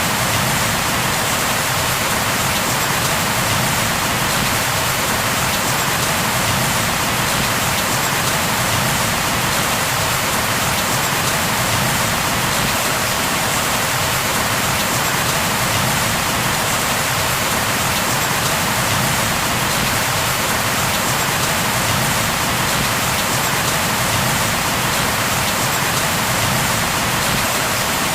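Steady heavy rain falling, a dense even hiss with no breaks or thunder.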